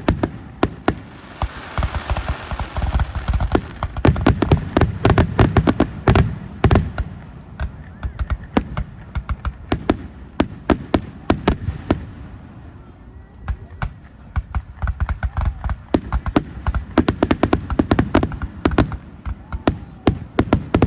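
Fireworks finale: a rapid barrage of aerial shell bursts and crackling, easing off briefly about thirteen seconds in before building up again.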